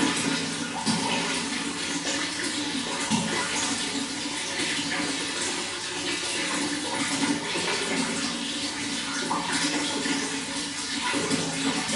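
Running water flowing steadily: a continuous, busy splashing rush with no pauses.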